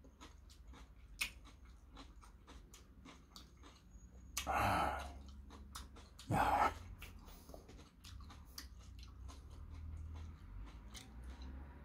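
Crisp chewing of raw cucumber, close to the microphone, with many small crunching clicks. Two louder short breathy sounds, about four and six and a half seconds in.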